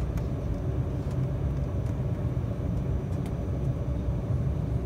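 Steady low cabin rumble of an Embraer 195 jet on the ground before takeoff, with its engines running, and a few faint clicks from the cabin.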